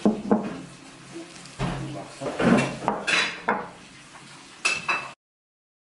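Dishes and cutlery clattering, a string of sharp knocks and clinks, cutting off suddenly near the end.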